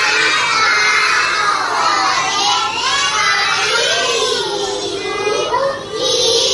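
A group of schoolgirls chanting a memorized rhyming poem about the pronoun in unison, in a sing-song tune.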